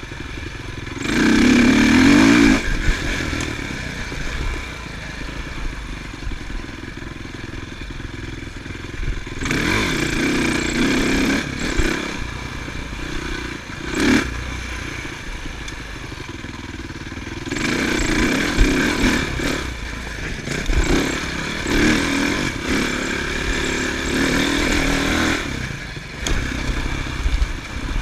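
Motocross bikes revving hard as they ride past on the track, coming and going in waves: one loud pass about two seconds in, another around ten seconds, and a longer busy stretch from about eighteen to twenty-five seconds, with quieter engine noise in between.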